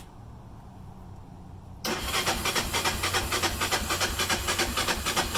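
Honda Sportrax ATV's cold engine cranking on its electric starter in fast, even pulses, starting suddenly about two seconds in. It does not catch, because it is being cranked cold without choke. A low engine idle hums underneath throughout.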